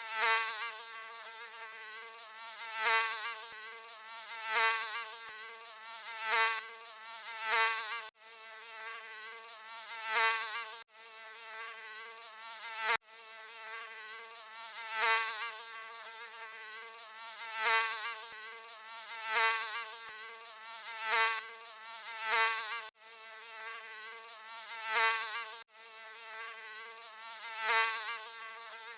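Mosquito wing buzz: a continuous high whine that swells louder and fades back about every two seconds, as if the insect is passing close by. A few very brief gaps break the buzz.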